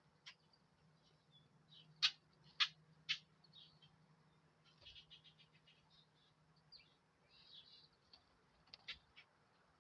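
Small birds chirping: three sharp chirps close together about two seconds in, followed by a scatter of fainter, quick chirps.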